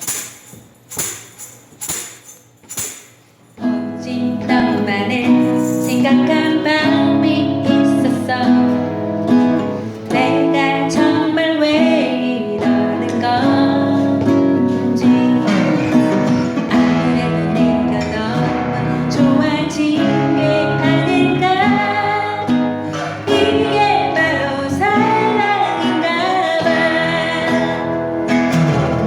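Four sharp taps counting in, then an acoustic guitar starts playing the song's accompaniment, with a woman's voice singing over it later on.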